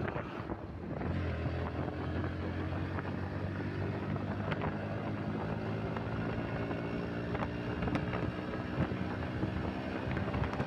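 Bajaj Pulsar NS125's single-cylinder engine running under way, its note strengthening about a second in and then holding steady, with wind on the microphone.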